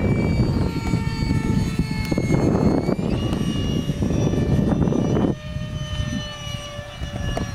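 Whine of a 64 mm electric ducted fan on a Freewing F-35 RC jet in flight, its pitch shifting with the throttle and stepping up about three seconds in. Heavy wind rumble on the microphone runs under it and eases about five seconds in.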